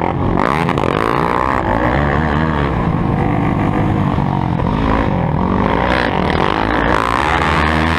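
Motocross bike engines revving, their pitch rising and falling continuously as several of them overlap.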